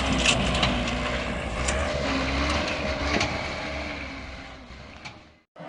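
Heavy vehicle engine running with scattered knocks and rattles. It fades away over the last second or so and cuts off to a moment of silence.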